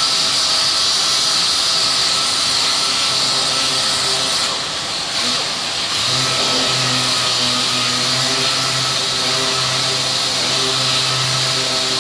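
Power sander running steadily while dry sanding body filler on a car panel, a continuous whirring hiss with a brief easing off about halfway through.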